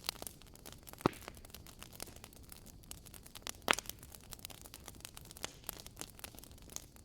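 Campfire crackling: scattered sharp snaps and pops over a faint low hiss, with two louder pops about a second in and near the middle.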